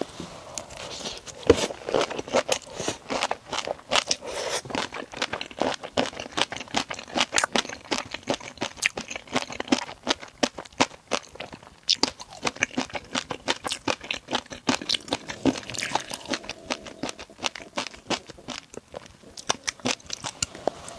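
Close-miked crunchy chewing and biting of food, a dense irregular run of crackling crunches with brief pauses about twelve seconds in and near the end.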